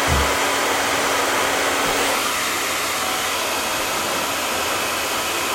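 Handheld blow dryer running steadily, a continuous rush of blown air, with a short low bump right at the start and a slight change in its sound about two seconds in.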